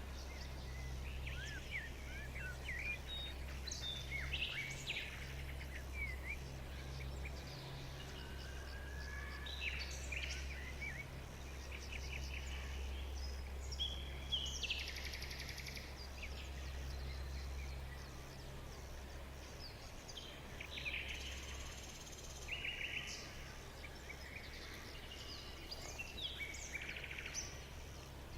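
Several songbirds chirping and trilling in short, scattered calls, over a low steady rumble.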